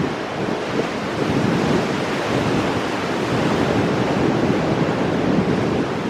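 Ocean surf breaking on rocks and washing back: a continuous rushing of water that swells and eases without any single standout crash.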